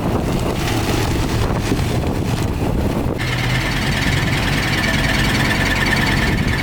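Heavy earthmoving machinery with its engine running, a dense low rumble. About three seconds in, a high, pulsing whine joins it.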